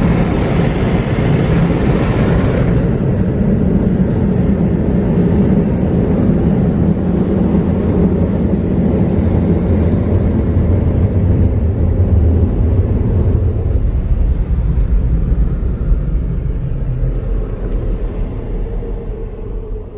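Belanger air cannon car wash dryers blowing on a car driving slowly through them, a loud steady rush of air with a deep rumble, heard from inside the car. An upper hiss fades a few seconds in, and the blowing dies away near the end as the car leaves the dryers.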